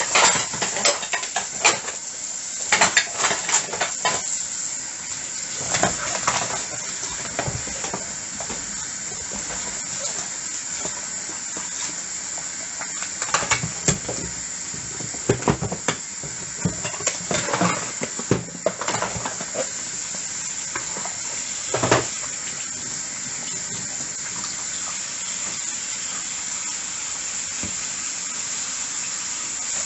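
Dishes washed by hand under a running tap: water runs steadily into the sink while plates and cutlery clink and knock together in scattered clusters through the first twenty seconds, with one sharp knock a little later. The last several seconds are just the running water.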